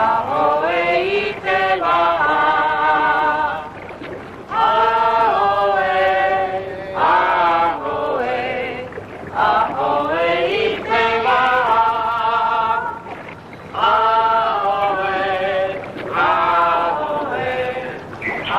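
A choir singing a Polynesian-language song in harmony, in phrases of a few seconds each with short breaks between.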